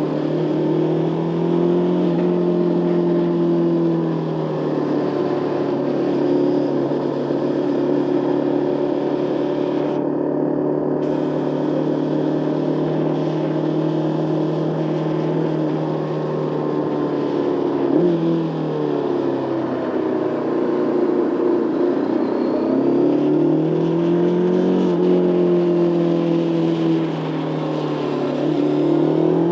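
Motorcycle engine running under way, heard from the rider's position, its note holding steady for long stretches and falling then climbing again with throttle and gear changes about two-thirds through and near the end, over a steady rush of wind and road noise.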